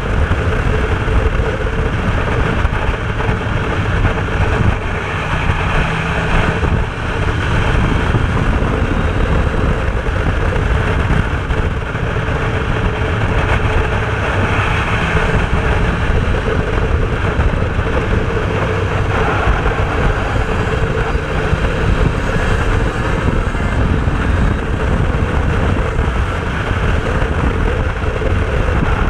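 Aprilia RS250's two-stroke V-twin engine running on the move, mixed with heavy wind buffeting on the microphone.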